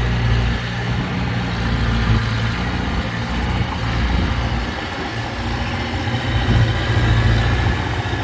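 Heavy diesel engine of earthmoving equipment running with a low drone, easing off a little midway and picking up again near the end.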